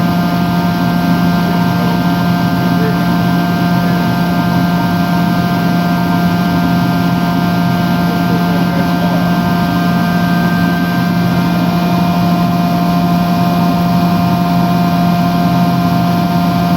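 Membrane filtration plant in a backwash cycle: a blower runs with a steady hum while air is driven back through the submerged membranes to shake them clean, giving a continuous churning rush.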